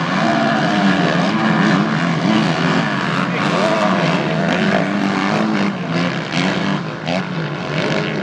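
Several off-road race engines, dirt bikes and quads, running hard and revving up and down as they pass on the sand track, their pitches rising and falling over one another.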